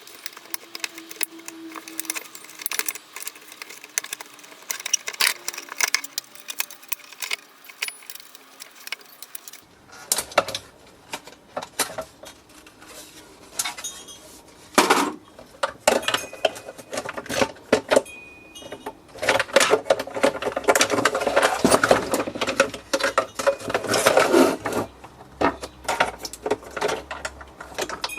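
Parts of a coffee machine being handled and taken apart: a string of clicks, taps and small plastic and metal rattles. About two-thirds of the way through there is a denser, louder stretch of rattling and scraping.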